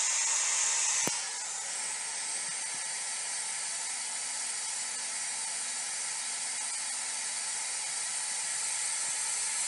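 A steady hiss like static, with a single click about a second in, after which the hiss continues slightly quieter.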